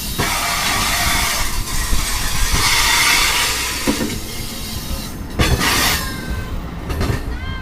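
NJ Transit commuter train moving along the platform: a loud, steady rushing of the cars and wheels, with a few sharp knocks from the wheels and thin high squealing tones near the end.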